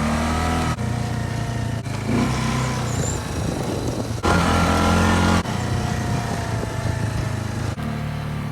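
Four-wheeler (ATV) engine running as it rides along, its pitch rising and falling with the throttle, louder for about a second midway.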